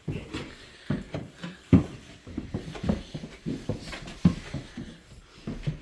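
A run of irregular knocks and thumps, the loudest about two, three and four seconds in.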